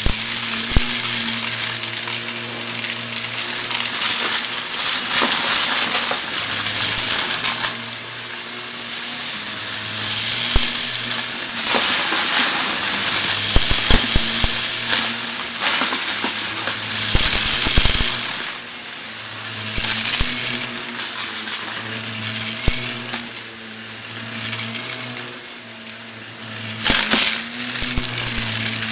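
Vacuum cleaner running with a steady motor hum while it sucks up crunchy debris, which crackles and clicks through the head. The sound swells and fades as it is pushed back and forth.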